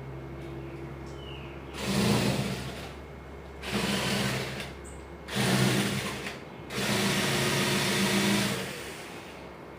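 A small electric motor, like a power tool's, running in four short bursts, the last one about two seconds long.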